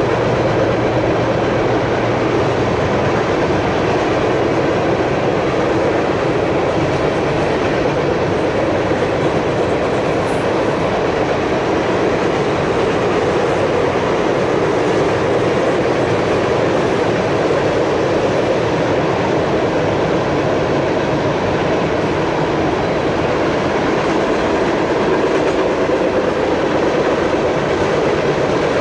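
Loaded open-top hopper cars of a freight train rolling past, a steady, unbroken noise of steel wheels running on the rails.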